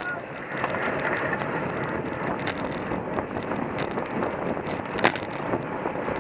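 Racing bicycle in motion: steady rushing wind on the microphone with road and drivetrain noise, and a few sharp clicks, the loudest about five seconds in.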